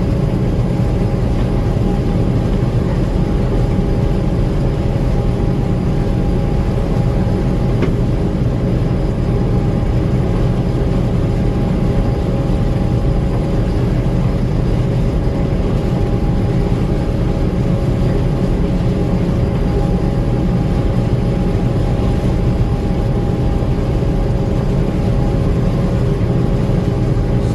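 Gleaner M2 combine running steadily, heard from the cab: a loud, even drone with a steady whine over it.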